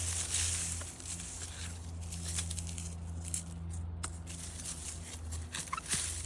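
Rustling and crackling with a few sharp clicks, over a steady low hum.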